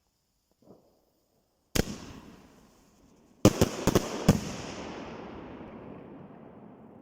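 Firecrackers exploding outdoors. A single sharp bang comes about two seconds in, then a rapid run of about five bangs a second and a half later, followed by a long echo that slowly dies away.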